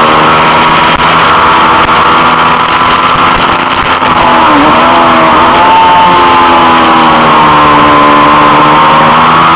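Honda CB500 parallel-twin engine running hard at racing revs, heard from on board the bike. The revs drop briefly about four seconds in, then climb again.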